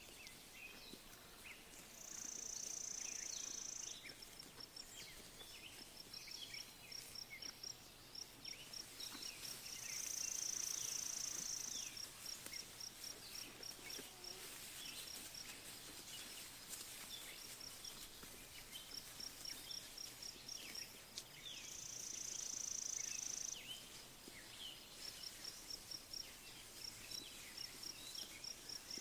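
Sheep-pasture ambience: a high-pitched, insect-like buzz lasting about two seconds comes three times, each time followed by a run of fast, even ticks. Faint scattered bird chirps run underneath.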